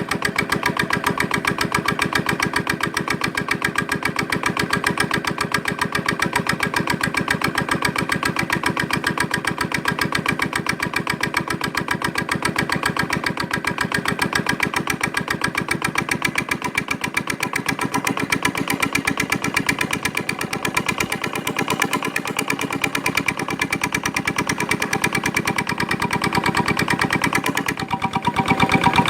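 Victor diesel engine running steadily while driving a Keystone electric generator, with a quick, even firing beat that gets a little louder near the end.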